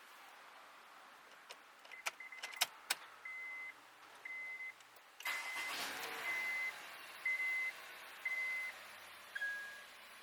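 A few sharp clicks, then a short high electronic beep repeating about once a second, ending with one lower-pitched beep that fades out. About halfway through, a steady rushing noise with a faint low hum comes in underneath.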